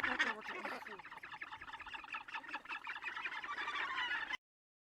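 Northern gannet colony calling: many birds' calls overlapping in a dense, rapid chatter, which cuts off suddenly a little over four seconds in.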